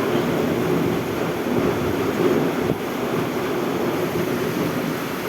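Thunderstorm wind and rain: a steady rushing noise with no breaks.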